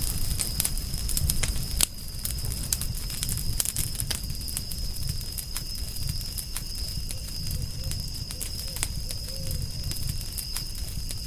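Wood fire crackling, with frequent sharp pops and snaps over the low rumble of the flames. A louder pop comes about two seconds in. A steady high-pitched tone sounds throughout.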